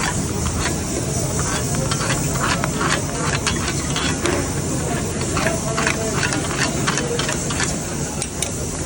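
Meat frying in a karahi wok: a steady sizzling hiss with frequent short clinks and scrapes of a utensil against the pan.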